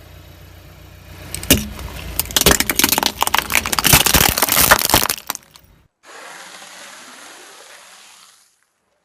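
A car's tyres crushing crunchy objects over the low hum of the engine: dense cracking and snapping that builds about a second in and stops abruptly after about five seconds. After a cut comes a softer, steady hiss of about two and a half seconds that fades out.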